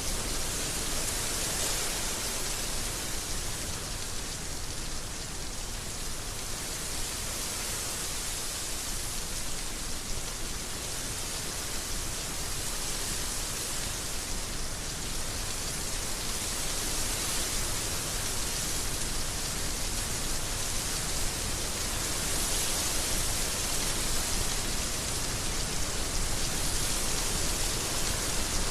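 Heavy rain falling steadily: a dense, even hiss with slight swells.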